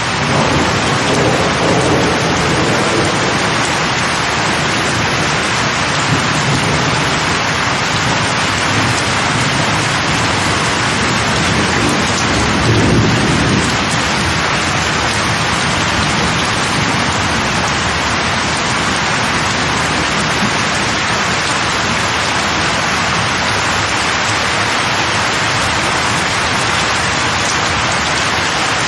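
Steady rain falling, a dense even hiss, with low rumbling swells a couple of seconds in and again around the middle.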